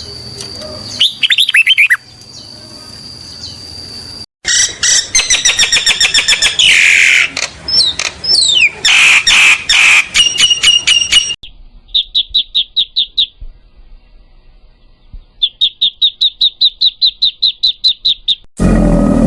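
A series of bird calls: a few chirps over a steady high whistle, then dense rapid chirping and chattering, then two quick trills of evenly repeated high notes. A loud roar begins just before the end.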